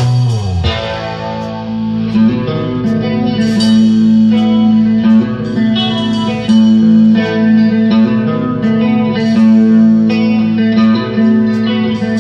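Live rock band playing an instrumental passage: a guitar plays a melody over a low note held steady throughout.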